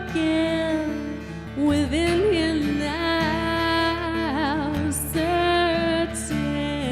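A woman's voice singing long held notes, wavering with vibrato about two-thirds of the way through, over acoustic guitar accompaniment in a gentle acoustic song.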